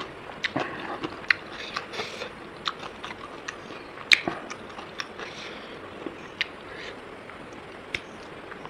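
A person chewing a mouthful of rice and pork, with irregular sharp clicks and short wet mouth noises.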